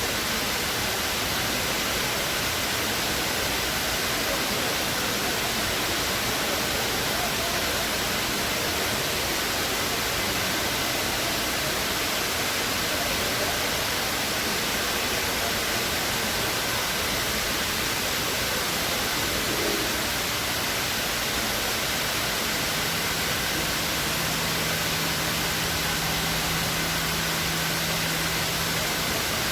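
The Dubai Mall Waterfall: water pouring down the tall cascade into the pool below, a steady, even rush of falling water. A faint low steady hum joins it about 23 seconds in.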